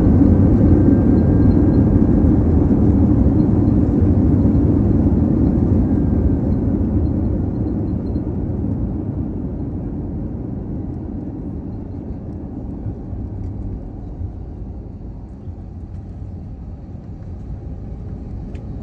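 Inside the cabin of an Airbus A321 rolling out on the runway after touchdown: a loud jet engine and runway rumble that gradually fades as the airliner slows down.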